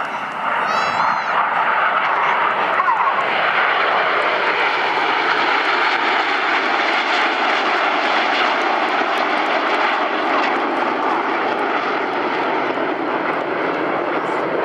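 Steady roar of BAE Hawk T1 jets flying a close-formation aerobatic display, the sound of their Rolls-Royce Turbomeca Adour turbofan engines.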